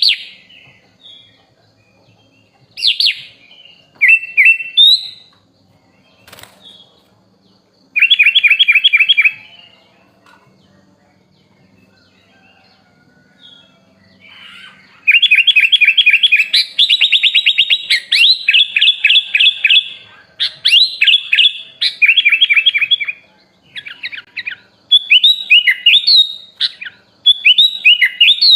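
Sooty-headed bulbul (kutilang) singing loud phrases of rapid trilled notes, in short bursts at first, then an almost unbroken run of varied phrases from about halfway in.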